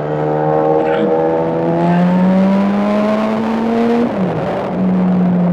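Motorcycle engine running under way, its pitch climbing steadily as it accelerates, then dropping about four seconds in, as on an upshift, and settling lower and steady.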